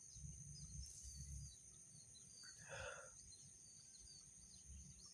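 Quiet outdoor ambience: a steady high-pitched insect drone with many short chirps over a low uneven rumble, and one brief louder call a little past halfway.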